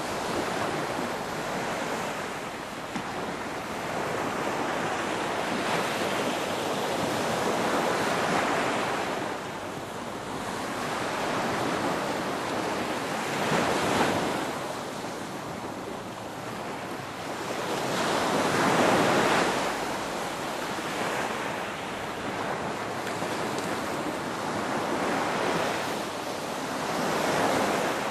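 Ocean waves breaking and washing on the shore, a continuous surf rush that swells and ebbs every several seconds. Wind is mixed in.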